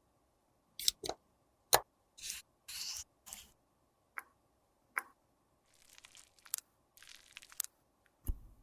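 Close-miked handling sounds of makeup repair: a string of sharp clicks and short scraping swishes, then a few seconds of soft crackling, ending in a dull thump.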